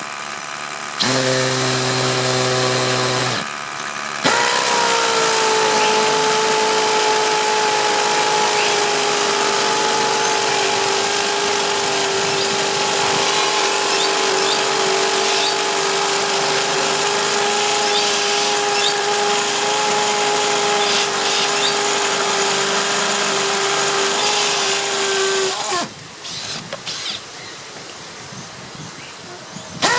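Rotary hammer drill boring into concrete with a 16 mm bit: a short burst, then a long steady run of about twenty seconds with a steady motor whine over the hammering. It stops a few seconds before the end.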